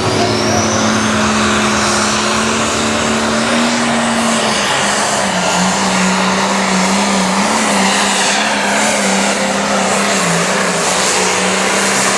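Turbocharged diesel engine of a limited pro stock pulling tractor at full throttle under load during a pull, with a high turbo whine rising in the first second. The engine's pitch holds steady, drops slightly about four seconds in, then wavers.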